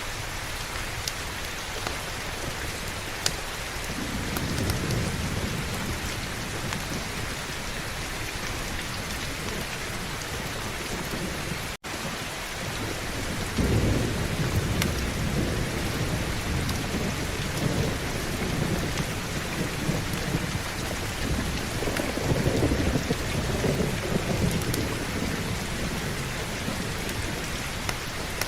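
Steady heavy rain with rolling thunder. A low rumble builds about four seconds in, and a louder, longer one starts a little past halfway and rolls on for about ten seconds. The sound cuts out for a split second just before the middle.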